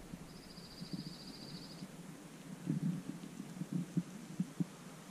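A songbird's rapid, high trill lasting about a second and a half near the start, with a hiker's soft, uneven footfalls on the trail as he climbs.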